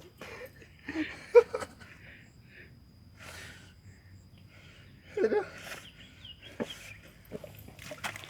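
A person's short strained vocal sounds and hard, breathy exhalations, a few seconds apart, as of someone struggling to free themselves from deep mud.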